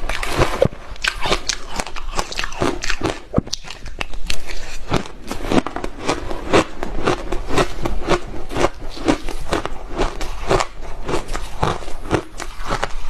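Close-miked crunching of hard ice being bitten and chewed: a steady run of sharp, crisp crunches.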